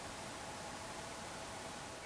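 Faint, steady hiss of outdoor background noise with no distinct event.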